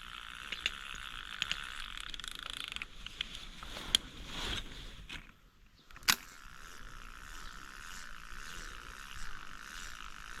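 Steady rush of a mountain stream, with scattered light clicks. It drops out briefly a little after five seconds, and a single sharp click follows.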